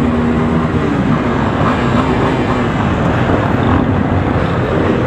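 Motorcycle engine running on the road under steady road and wind noise, with engine tones rising and falling a few times.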